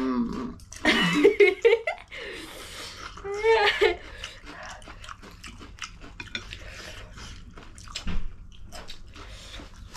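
Close-up eating sounds: chewing, smacking and slurping of spicy ramen noodles and prawns, with a few short wordless vocal sounds in the first four seconds.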